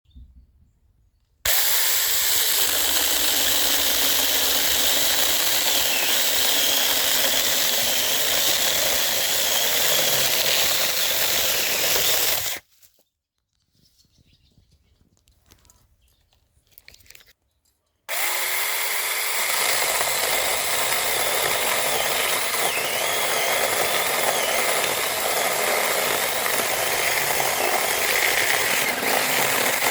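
A small cordless battery-powered handheld mini chainsaw running steadily as it cuts wood, in two long runs. The first starts abruptly about a second and a half in and stops just after twelve seconds. The second starts again around eighteen seconds and keeps going.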